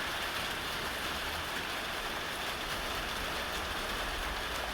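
Heavy rain pouring down, a steady even hiss, with a low rumble underneath.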